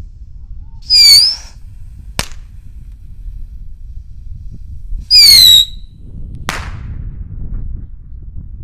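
Two small whistling rockets with report go off one after the other. Each gives a short, shrill whistle lasting about half a second, then about a second later a sharp bang. Wind rumbles on the microphone throughout.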